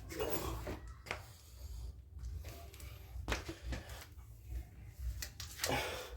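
Scattered clicks, knocks and scrapes of metal hand tools being handled, with a louder group near the end.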